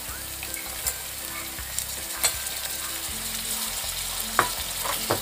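Raw prawns sizzling as they go into hot oil with softened onions and green chillies, a steady frying hiss. A few sharp clicks break in now and then.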